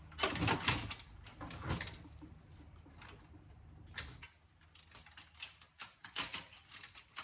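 Sharp clicks and light clatter of cutters and sheet-metal parts as a home theater receiver is taken apart and its wires cut, with a quick run of small clicks in the last couple of seconds.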